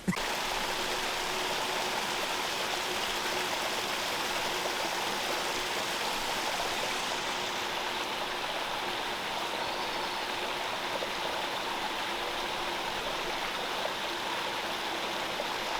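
Steady rushing of running water from a stream, even and unbroken throughout.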